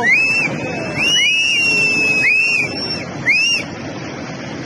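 Shrill whistling, several short rising-then-falling whistles and one long held whistle overlapping, over a steady rushing roar of floodwater. The whistles stop shortly after three seconds in, leaving the roar.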